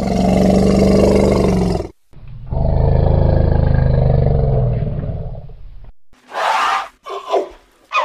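African elephant calling: two long, low, rough roars, then from about six seconds in a run of short, shrill trumpet blasts.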